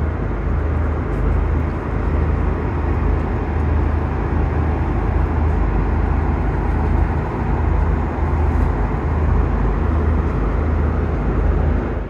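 Steady low rumble and roar of engine and air noise inside an Airbus A330-200's cabin, strongest in the deep bass and unbroken throughout.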